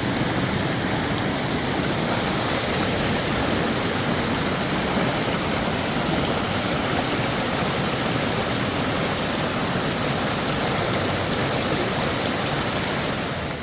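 Steady, even rushing noise with no rhythm or distinct strokes, which drops off suddenly at the end.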